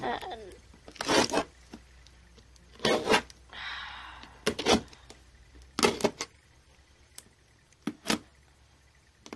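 Handling of a model train set's packaging: scattered knocks and clicks, with a short rustling scrape about three and a half seconds in.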